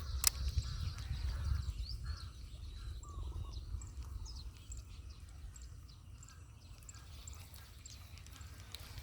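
Scattered short bird calls and chirps over a low wind rumble on the microphone, the rumble strongest in the first few seconds and then easing; one sharp click just after the start.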